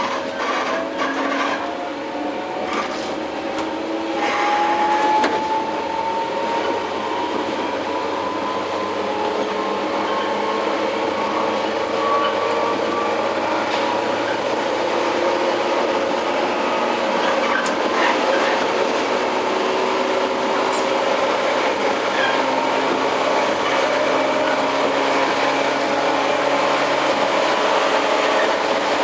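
On-board running sound of a JR 115 series electric train, motor car MoHa 114-102: the traction motors' whine rises slowly in pitch over the first dozen seconds as the train gathers speed, then holds steady, over continuous wheel and rail noise. A few clicks sound in the first five seconds.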